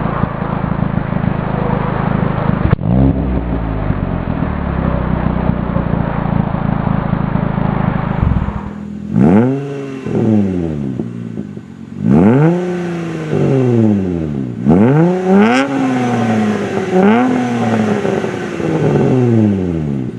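Hyundai Tiburon engine through an aftermarket exhaust, running steadily with one quick blip of the throttle about three seconds in. Then another Tiburon with an aftermarket exhaust is free-revved in about six sharp blips, each rising and dropping back quickly.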